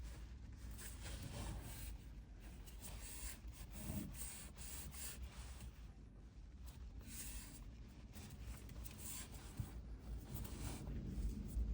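Faint, irregular rubbing and scraping of hands pressing and working an acrylic sheet down onto a glued surface, squeezing excess glue out from underneath.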